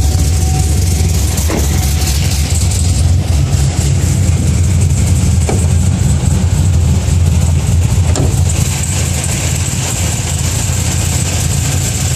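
A 6.2-litre V8 in a 2011 Camaro-based Z/TA Firebird idling steadily. The owner thinks it carries a performance camshaft.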